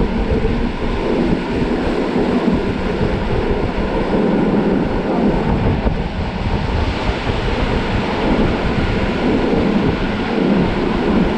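Polregio regional passenger train running along the line, a steady rumble of wheels on the rails and the carriage's running noise heard from inside the train.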